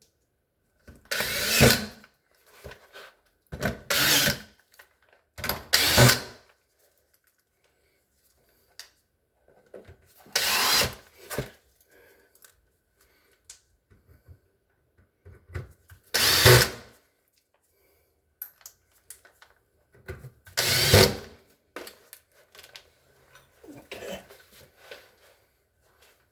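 A handheld power tool, such as a drill or driver, run in six short bursts of about a second each, several seconds apart, each burst getting louder before it stops.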